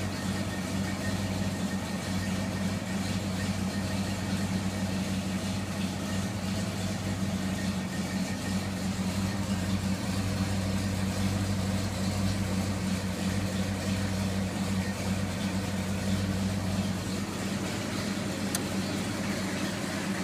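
1972 Chevelle's LS5 454 big-block V8 idling steadily, heard from inside the cabin.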